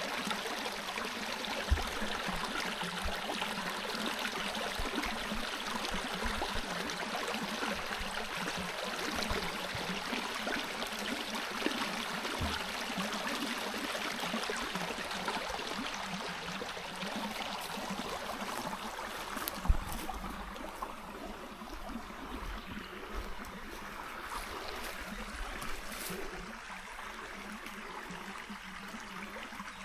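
Stream water running and babbling steadily, with a couple of brief low thumps, one near the start and one about two-thirds of the way through.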